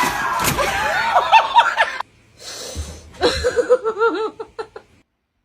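A person laughing in two bouts of quick, repeated bursts, cutting off about five seconds in.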